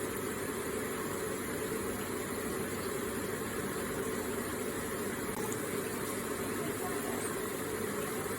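Electric water feature: water running steadily, an even, unbroken flow.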